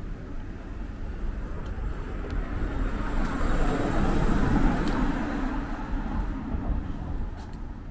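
A car driving past on the road: tyre and engine noise swells to its loudest about halfway through, then fades as it moves away.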